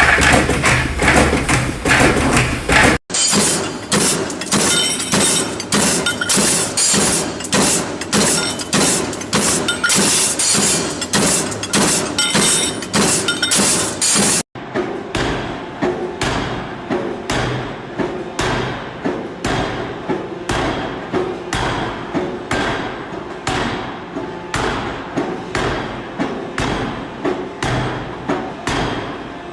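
Rapid, evenly repeated metal-on-metal blows from factory machines such as power hammers, in three cut-together shots. In the last shot the blows come about twice a second over a steady machine hum.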